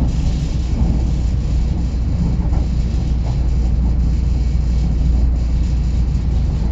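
Korail Nuriro electric multiple-unit train running, a steady low rumble.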